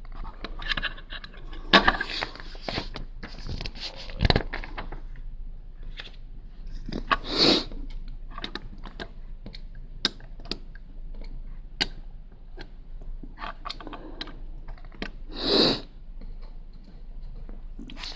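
Plastic Lego pieces being handled and sorted: irregular small clicks and rattles, with two short louder rustles.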